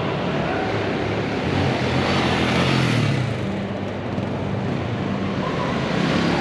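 Motorcycle engines running and revving over a steady din of noise.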